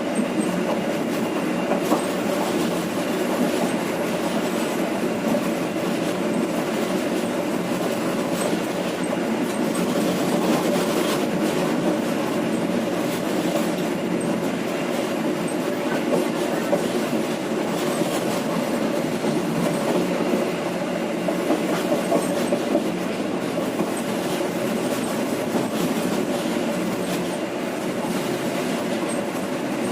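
Passenger train running along the track, heard from on board: a steady rumble of wheels on rails with occasional clicks over rail joints.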